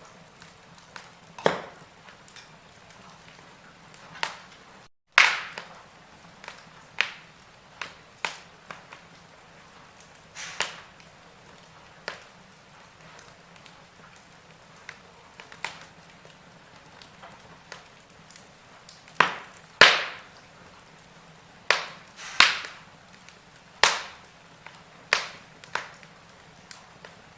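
Wood fire crackling in a fireplace: sharp, irregular pops and snaps over a faint steady hiss, with the loudest pops coming about two-thirds of the way in.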